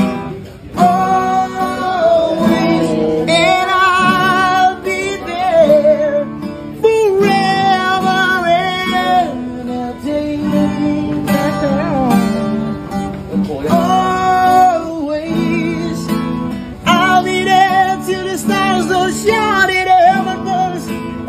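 A singer with a strong vibrato on held notes, accompanied by a strummed acoustic guitar; the sung phrases break briefly twice.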